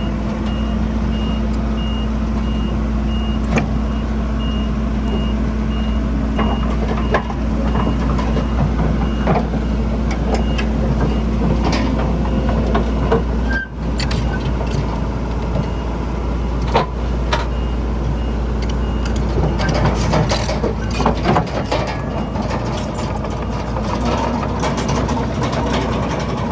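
Heavy diesel earthmoving machinery running steadily, with a reverse alarm beeping at an even pace until about two-thirds of the way through. Scattered knocks and clatter of rock and soil, busier near the end.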